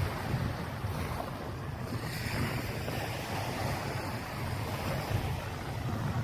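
Waves washing on a sandy beach, with wind buffeting the microphone as a steady low rumble.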